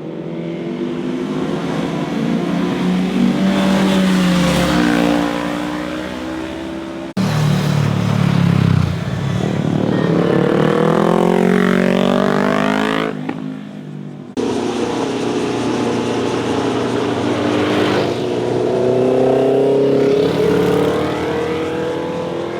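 Motorcycles riding past through a corner, their engines revving with the note falling and then climbing as they pass. Three separate passes, each broken off abruptly by a cut, about a third and two-thirds of the way through.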